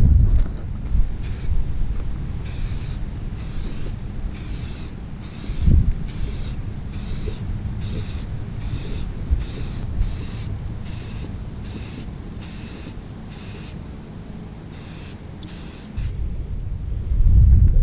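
Surface prep before priming: short hissing strokes, about one and a half a second, as pre-paint product is worked onto a part, over a steady low rumble.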